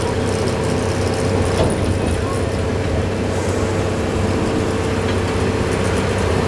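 Amusement-park train running along its track, heard from an open passenger car: a steady running rumble with a constant hum.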